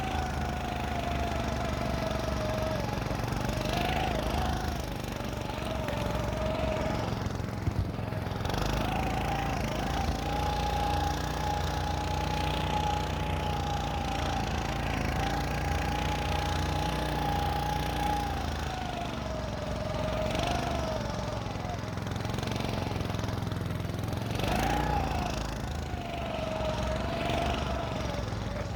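Motorized snow scooter's small engine running as it is ridden, its pitch rising and falling with the throttle and held high for several seconds in the middle.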